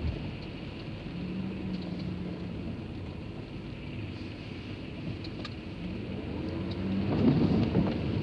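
Car running: a steady low engine and road hum, growing louder and rougher about seven seconds in.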